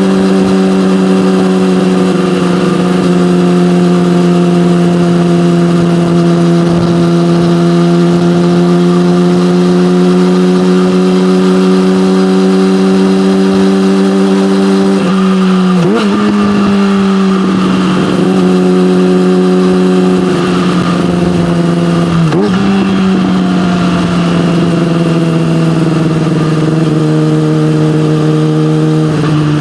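Yamaha motorcycle with an SC-Project aftermarket exhaust running at steady cruising revs, its note sinking slowly. About halfway through, the note dips sharply and recovers several times as the throttle and revs change.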